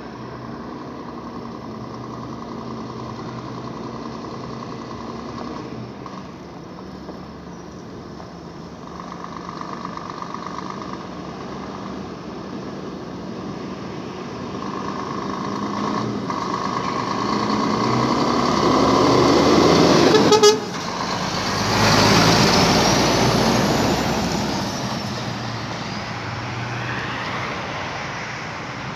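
Scania truck approaching and passing by, its sound growing louder to a peak about twenty seconds in, then fading as it moves away.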